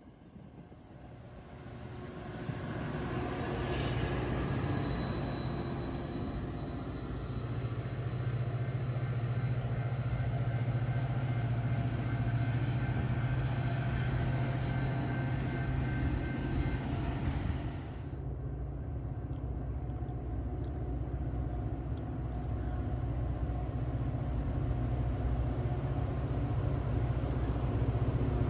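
WeGo Star commuter train passing, its diesel locomotive running with a steady low drone that builds over the first few seconds; the higher sound drops away abruptly about 18 seconds in.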